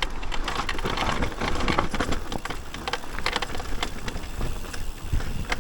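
Electric mountain bike riding over rough trail ground: tyres crackling over dirt and debris, with many small rattles and knocks from the bike and a low rumble underneath.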